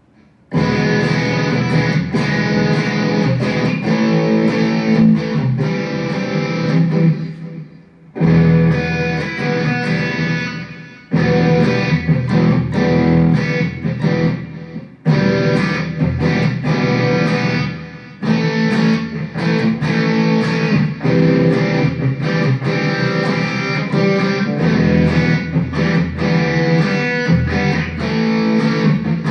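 Electric guitar played through a Mooer GE100 Pro multi-effects processor preset. The playing starts about half a second in and runs in phrases, with brief pauses between them.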